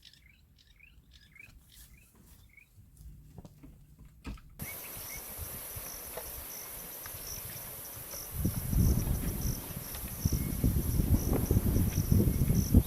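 Faint bird chirps, then from about four and a half seconds a steady insect chorus with a pulsing high trill. From about eight seconds an irregular low rumbling noise comes in and is the loudest sound.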